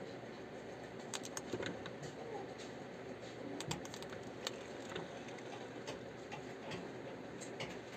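Irregular light clicks and taps, a few in quick succession about a second in and more scattered later, over steady background noise.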